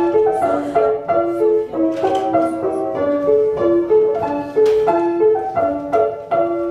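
Piano playing a tune in a steady rhythm, with children's wooden spoons clacking in time.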